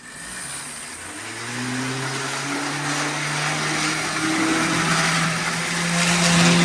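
Athearn HO-scale diesel locomotive's dual-flywheel motor running, a whining hum over a hiss that slowly rises in pitch and gets louder. It is a noisy runner that needs lubricating.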